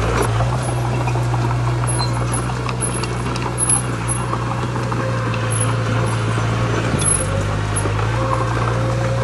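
Diesel engine of heavy earthmoving machinery running steadily under load, with scattered knocks and rattles from the machine or the stone.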